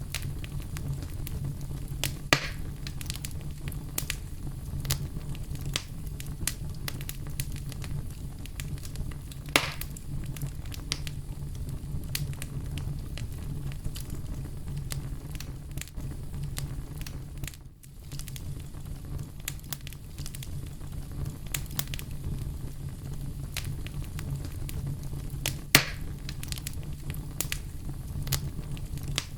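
Campfire burning: a steady low rumble of flames under constant small crackles, with three louder pops, a couple of seconds in, about ten seconds in and near the end. The sound dips briefly just past the middle.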